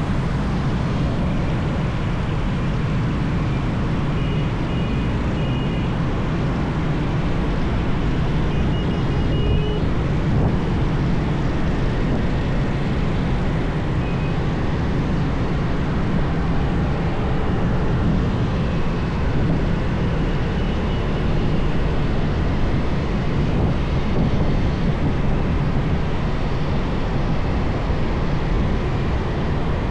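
Motorbike riding along a busy highway: a steady, unbroken engine and road noise with a heavy low rumble. A few faint, short high beeps come through about four and nine seconds in.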